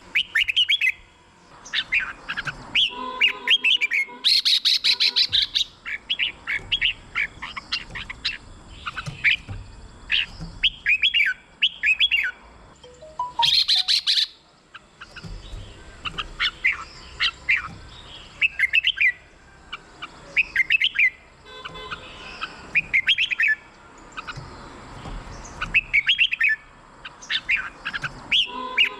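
Red-whiskered bulbul singing: a steady run of short, bright whistled phrases, broken by a few brief harsh chattering bursts.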